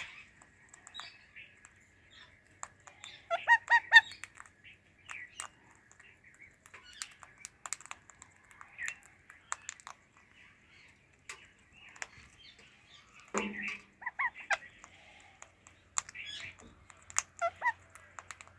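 Indian ringneck and alexandrine parakeets making short chirping calls among scattered sharp clicks, with a quick run of three loud calls about three and a half seconds in and more short calls later on.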